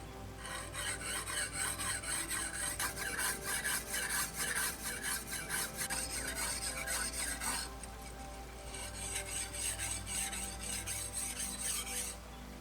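Metal blade rasped rapidly back and forth against an abrasive, as in filing or sharpening a knife, in a long run of quick strokes, a brief pause, then a shorter run.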